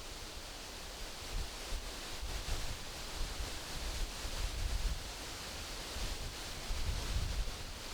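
Wind rustling through tree leaves as a steady hiss, with a low rumble that swells and fades in gusts.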